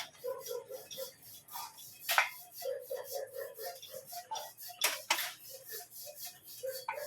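Sharp metal knocks, four of them a second or few apart with two close together near the middle, as a new bearing is driven down to seat fully in the alloy wheel hub.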